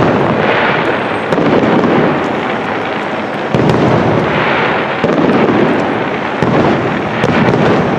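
Aerial fireworks shells bursting one after another, with several louder swells of bangs.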